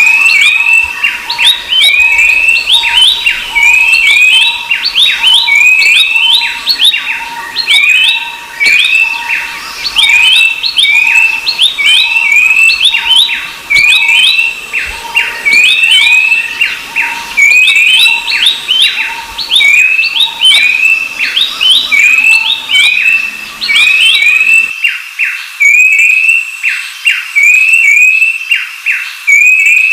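Babblers calling in a loud, fast, evenly repeated run of short, high chirping phrases with quick downward strokes, about one and a half phrases a second.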